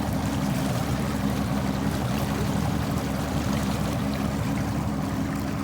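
Bass boat's outboard motor running steadily at low speed, with a rush of water under it.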